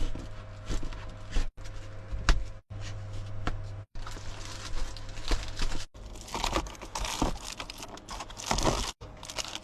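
Crinkling, rustling and small knocks of materials being handled during DIY work, broken into several short pieces, over a low steady hum.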